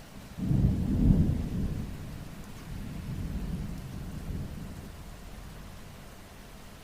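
Thunder rumbling over steady rain: a low rumble breaks in suddenly about half a second in and is loudest near one second. It swells again around three to four seconds, then dies away under the rain's hiss.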